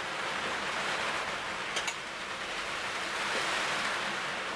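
Steady rushing hiss of heavy, pouring rain, with one light click just under two seconds in.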